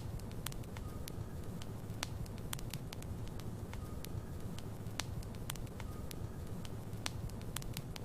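Logs burning in a fireplace: a steady low rush of flames with frequent, irregular sharp crackles and pops from the wood.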